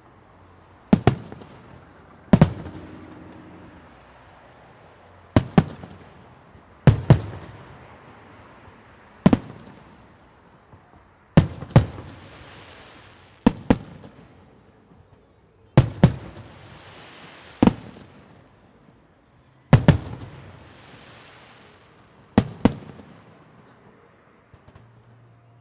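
Fireworks bursting overhead: about a dozen sharp bangs, one every second or two, many coming as quick doubles and each trailing off in an echoing rumble, with a crackling hiss after a few of them.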